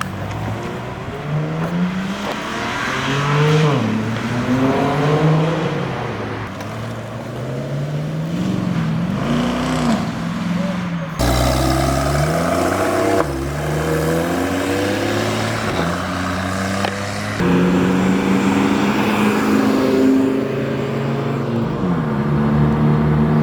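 Car engines revving and accelerating, their pitch climbing and dropping back again and again as they work through the gears, with an abrupt change about eleven seconds in.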